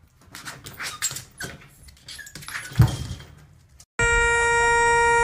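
A dog's small squeaks and scuffling, with one louder thump near the middle. About four seconds in, it cuts off abruptly to a loud, steady, horn-like tone.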